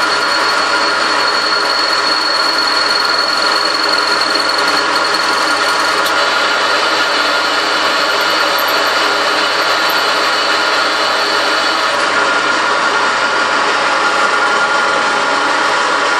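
Machine tool running steadily while machining long studs: a steady high whine over an even rushing noise. The whine's pitch shifts slightly about six seconds in and again around twelve seconds.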